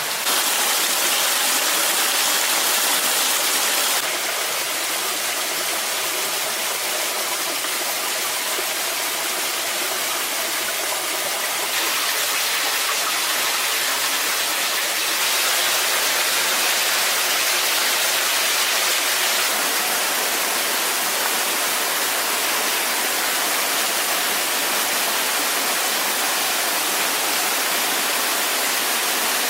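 Steady rushing of a waterfall, an even wash of water noise that steps up or down in level a few times.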